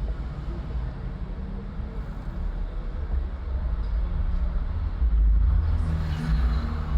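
Low rumble of vehicle engine and road noise in street traffic, growing louder about halfway through.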